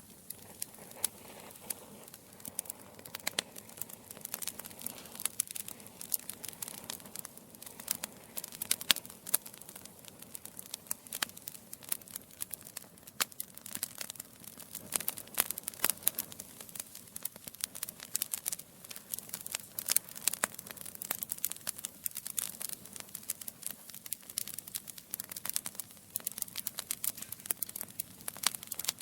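Burning wood logs crackling in a fireplace: a constant scatter of sharp pops and snaps, several a second and irregular, over a faint low rush of the flames.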